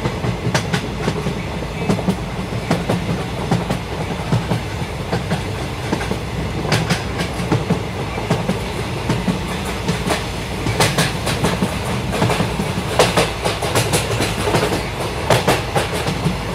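Moving passenger train: a steady rumble of the coaches, with the wheels clattering over rail joints in irregular clusters of sharp clicks.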